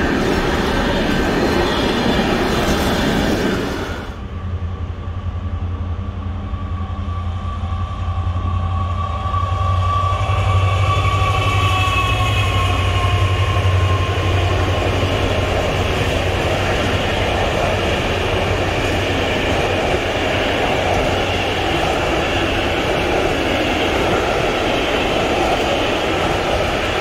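A train passing on the line. Loud rail noise cuts off abruptly about four seconds in, giving way to a deep steady hum with a faint whine. This then builds into loud, steady rumbling of the train going by.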